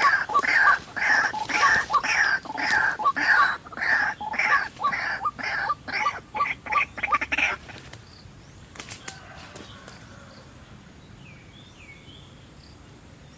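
White-breasted waterhen calling: a loud, rapidly repeated croaking note, about three a second, quickening slightly before it breaks off about halfway through. After it come a few faint clicks and faint chirps.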